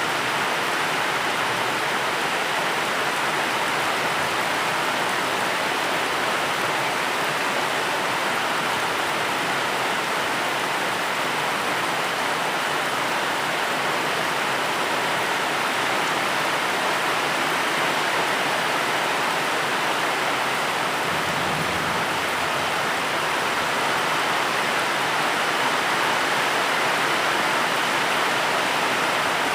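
Steady heavy rain, a dense even hiss with no distinct drops standing out.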